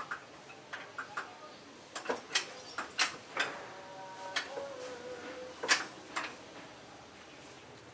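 Irregular clinks and knocks of metal hand tools and engine parts being handled during an engine teardown, with a short faint squeak near the middle.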